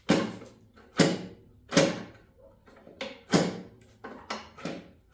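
A series of about eight sharp clunks and knocks at irregular intervals, each dying away quickly, with no engine or starter running.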